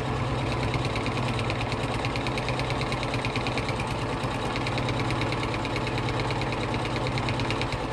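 Electric sewing machine running steadily at speed, stitching two pieces of fabric together, with a fast, even rattle of the needle over a low motor hum.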